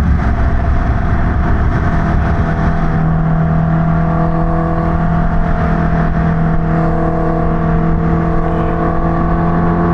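Kawasaki Ninja H2's supercharged inline-four engine running at a steady cruise, its pitch holding level, with wind rumbling over the microphone.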